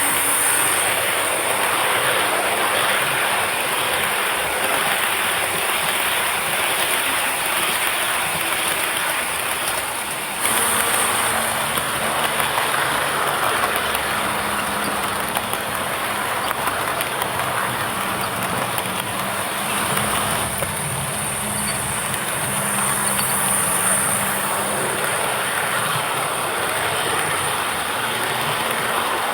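HO-scale model train running on the layout, hauled by two sound-equipped Tenshodo Quantum C62 steam locomotives: steady rolling noise on the track mixed with the locomotives' onboard steam sound.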